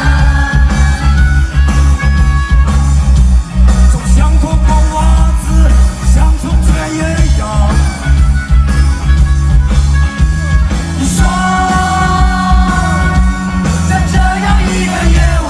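Live rock band performing: amplified guitars over heavy bass and steady drums, with singing at times.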